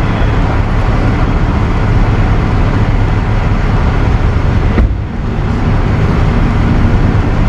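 A vehicle's engine running steadily with driving noise, a strong low hum underneath. A sharp click comes just under five seconds in, followed by a brief dip in level.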